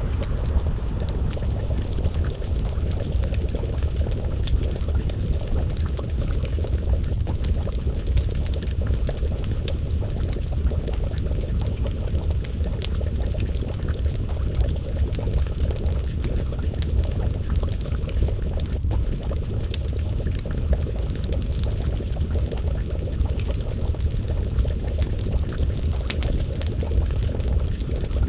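Wood fire crackling, with frequent small sharp pops over a steady low rumble, and a pot of stew bubbling as it simmers.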